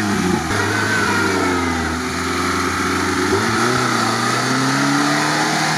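Lada Niva's four-cylinder engine revving hard under load in mud, held at high revs. The engine pitch dips about three seconds in and climbs again.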